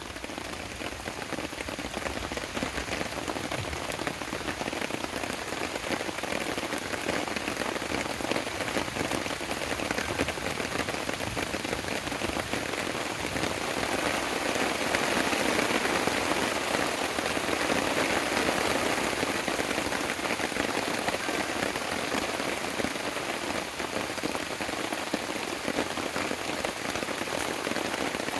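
Steady rain falling, a little heavier around the middle.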